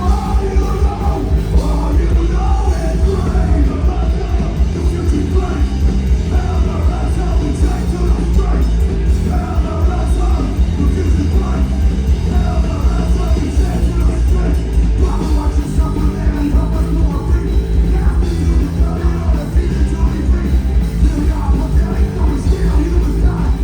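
Live rock band playing loud through a PA, with a singer's shouted vocal over heavy bass and drums.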